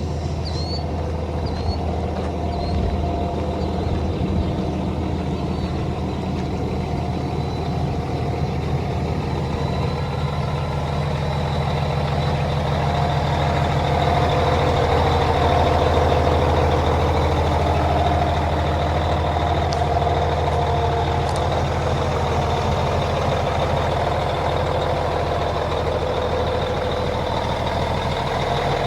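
Cummins ISX15 diesel engine of a Kenworth T800 truck running steadily at idle, with a thin steady high whine over it; it gets a little louder about halfway through.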